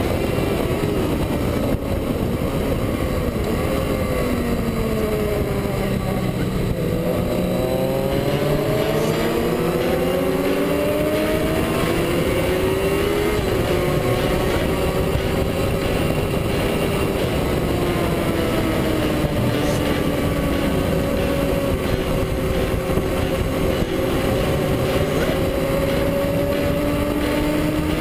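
Motorcycle engine at speed on a race track, heard onboard with a steady rush of wind. Its pitch falls over the first six seconds or so, climbs again to about thirteen seconds, dips once more, and then rises slowly toward the end.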